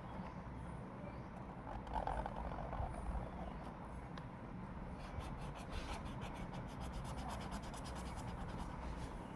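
Drawing tool scratching on paper, a run of quick repeated short strokes in the second half, as in shading.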